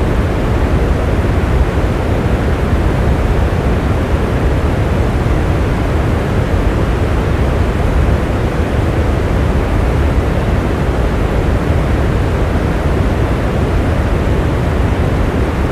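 Steady heavy rain: a dense, even rushing hiss, weighted toward the low end, that never lets up.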